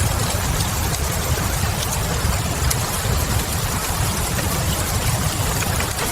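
Fireplace crackle mixed with steady rain: an even hiss of falling rain over a constant low rumble, with scattered small pops from the burning logs.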